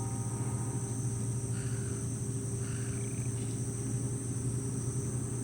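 Insects, crickets by their sound, chirping steadily in a continuous high-pitched drone, over a steady low hum.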